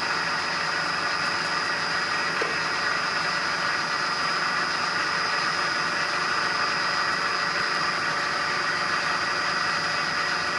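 Metalworking machine tool running steadily, with a constant high whine over its motor and gear noise, taking a cut in a steel workpiece.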